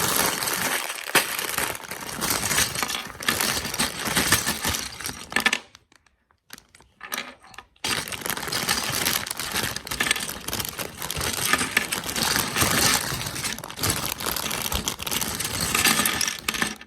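A plastic Lego parts bag being crinkled and torn open, with small plastic bricks clicking and rattling inside. The handling pauses for about two seconds near the middle, with only a few clicks, then goes on.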